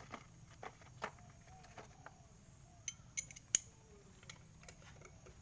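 Scattered light clicks and metallic clinks over a faint low hum, the sharpest click about three and a half seconds in.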